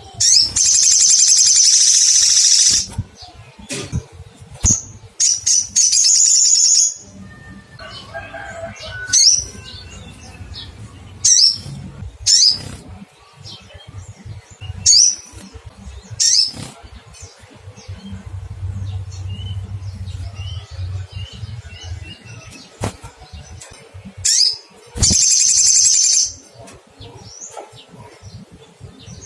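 Olive-backed sunbird calling: sharp, high "cuit" chirps scattered through, broken three times by loud rapid high trills lasting a second or two each, used as a lure call to provoke a rival.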